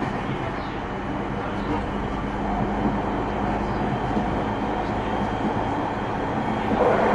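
Running noise inside the motor car of a JR 209-series electric train: a steady rumble of wheels on rail with a faint steady low hum, growing somewhat louder near the end.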